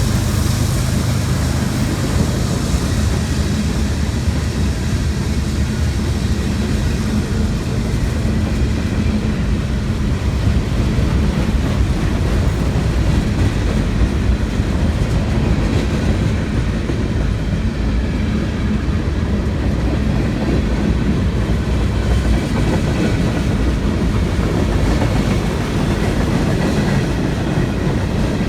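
Freight train cars rolling past close by: a steady, loud rumble and rattle of steel wheels on the rails, unbroken throughout.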